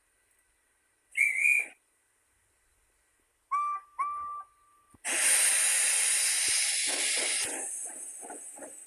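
Steam locomotive whistle: a short breathy toot, then two clear toots, the second held for about a second. A long hiss of steam follows and fades into slow, evenly spaced chuffs near the end as the engine gets under way.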